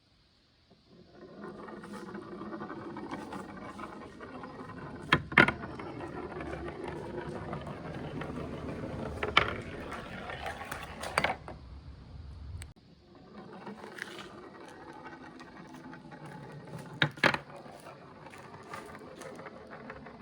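Glass marbles rolling down a marble run's slopes: a steady rolling rumble with a few sharp clicks as marbles strike the track or one another. The rolling starts about a second in, stops briefly a little past halfway, then starts again.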